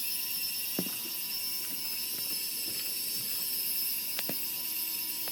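Small electric motors of a Lego Technic tractor whining steadily at a high pitch as it pulls a weighted sled. Two sharp clicks are heard, one about a second in and one a little after four seconds.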